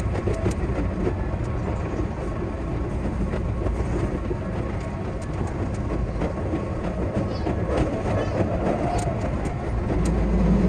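Keihan 8000 series electric train running, heard from inside the driver's cab: steady running noise with frequent rail clicks, growing louder and deeper near the end.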